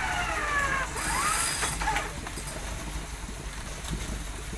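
Off-road Jeep's engine running with a low, steady rumble, with high, falling whining tones and a short hiss in the first two seconds.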